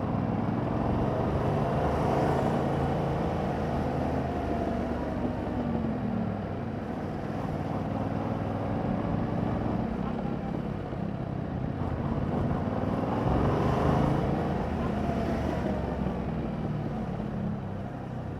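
Yamaha MT-07's parallel-twin engine running through its stock exhaust while riding, its pitch rising and falling a couple of times with the throttle.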